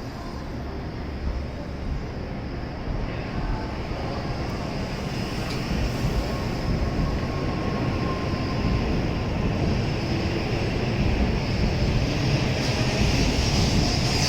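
Tokaido Shinkansen train noise at the platform: a steady low rumble with a high whine and hiss that grow gradually louder.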